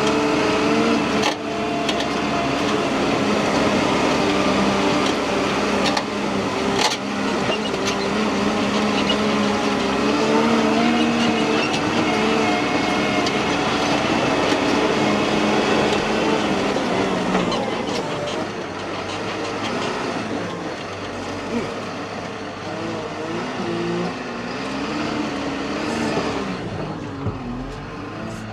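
A vehicle on the move with a steady droning whine over the road noise. Its pitch wavers up and down in the second half as the speed changes. The noise comes from a failing axle whose oil is thick, black and full of metal.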